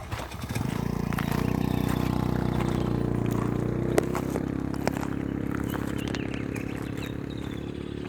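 A vehicle's engine, most likely the company ambulance's, starts running about half a second in and holds a steady drone. It slowly gets quieter through the second half as the vehicle moves off. A couple of sharp clicks or knocks sound in the middle.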